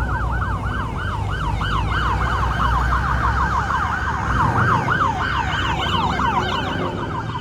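Police siren on a fast yelp, rising and falling several times a second, over a low steady vehicle engine rumble.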